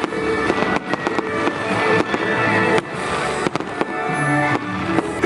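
Fireworks bursting and crackling over the display's loud music soundtrack, with sharp bangs scattered through.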